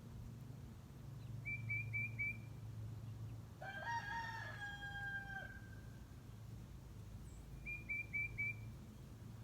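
A rooster crows once, a call of nearly two seconds in the middle. Before and after it, a small songbird sings a quick four-note phrase, twice in all.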